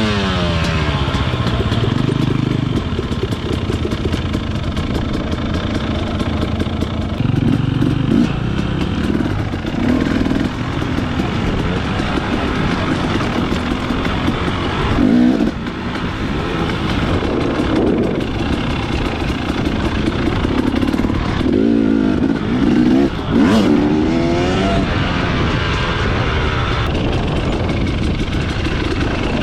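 Dirt bike engines running and revving as bikes ride past. The engine note sweeps downward as a bike goes by right at the start, and again a couple of times about three-quarters of the way through.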